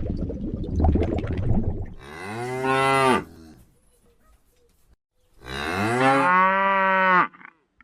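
Two long bovine moos, each about a second and a half to two seconds long and rising in pitch, with a pause between them. A low rough noise runs through the first second or so.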